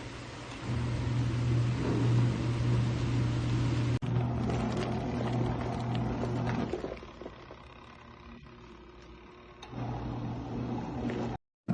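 Mini portable washing machine's motor running with a steady hum, stopping for about three seconds midway and then starting again; it cuts off suddenly near the end.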